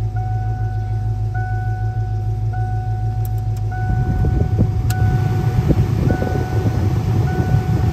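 A 1988 Saleen Mustang's 5.0-litre V8 engine running: a steady low hum that turns rougher and louder about four seconds in. Over it, a steady electronic tone breaks off briefly about once a second.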